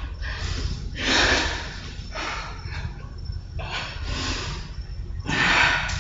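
A woman breathing hard from exertion mid-workout, with a run of heavy, hissing breaths about one a second.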